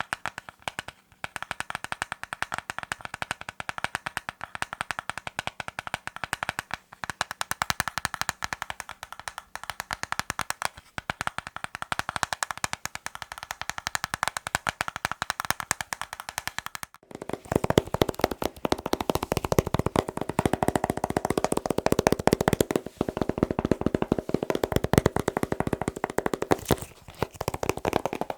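Rapid tapping on small hard objects, a dense stream of sharp clicks. About seventeen seconds in it switches to a different object that sounds louder and lower.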